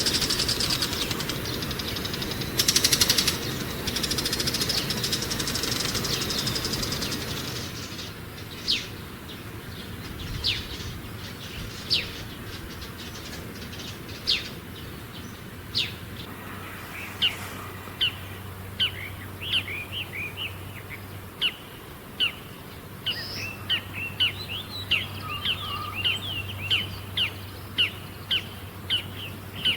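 Wild songbirds calling. A dense, high buzzing chatter fills the first few seconds and stops abruptly. Then come sharp, falling single call notes about every second and a half, joined about halfway through by quick, repeated twittering chirps.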